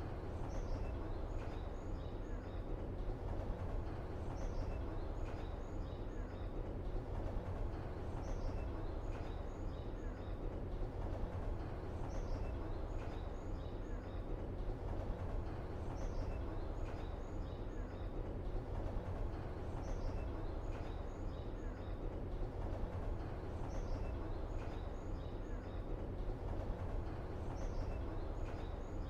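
Steady low outdoor ambience rumble with a short cluster of high chirps from small birds repeating about every four seconds.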